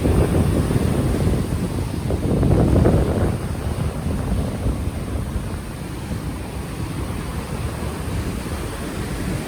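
Ocean waves washing onto the shore, with wind buffeting an unshielded microphone and adding a low rumble. A swell of surf in about the first three seconds, then a softer, steady wash.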